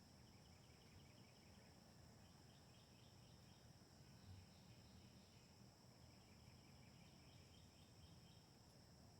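Near silence with a faint outdoor backdrop: a steady high-pitched insect drone, over which soft rapid trills come and go several times, with a low rumble underneath.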